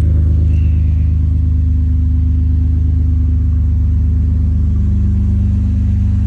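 2008 Toyota Aurion's 3.5-litre V6 idling steadily through J-pipe headers and a 3-inch straight-through exhaust with the resonator deleted: a low, even exhaust note that holds one pitch.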